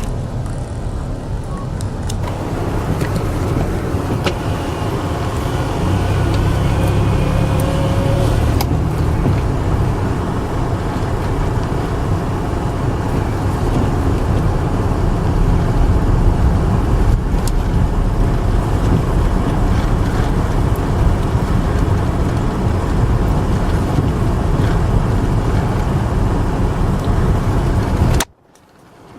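A car driving on snowy roads: steady low engine and road rumble that cuts off suddenly near the end.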